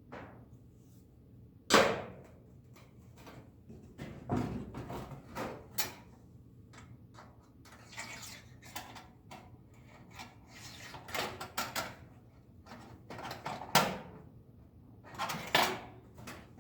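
Thin metal TIG rod being bent and fitted by hand: irregular metallic clicks, clinks and short scrapes. The sharpest knocks come about two seconds in and again near fourteen seconds.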